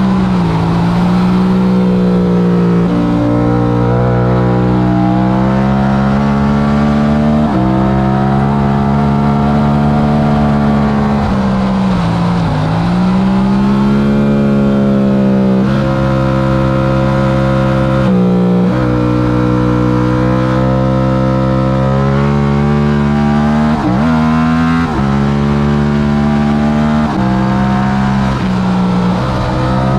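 Stock Yamaha R7's 689 cc parallel-twin engine at race pace, pulling hard up through the revs with quick gear changes. Its pitch falls steeply under braking with downshifts about halfway through and again near the end, then climbs again on the throttle.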